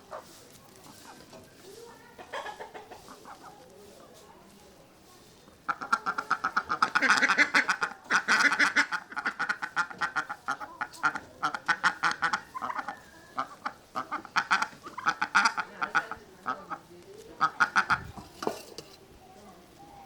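Duck quacking in rapid runs of loud calls, starting about six seconds in and going on in bursts almost to the end, with a quieter short call earlier.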